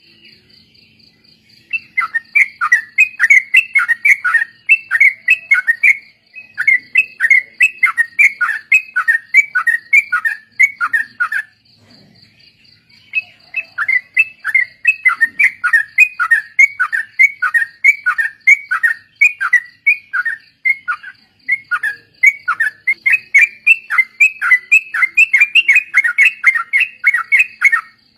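Yellow-vented bulbuls (trucukan) singing in rapid runs of falling chattering notes, about four a second, in long bouts broken by two short pauses. A faint steady high pulsing trill runs underneath.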